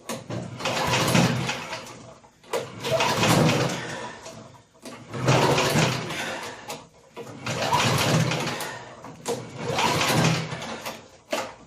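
Recoil starter of a Snapper walk-behind mower's Tecumseh engine, pulled about five times, cranking the engine without it catching. The engine is getting no spark: the mower's safety bail on the handle was not held in.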